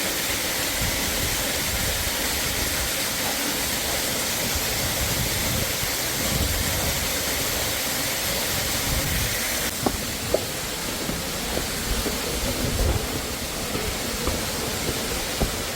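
Steady hissing rush of water, with a few sharp taps or drips from about ten seconds in.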